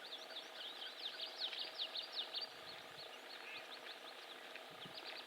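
Several songbirds singing faintly, a quick run of short, high, down-sweeping notes that is busiest in the first couple of seconds and then thins out.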